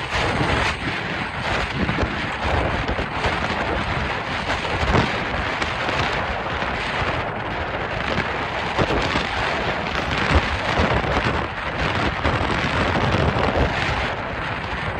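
Strong wind buffeting the microphone: a loud, continuous rush that rises and falls in gusts.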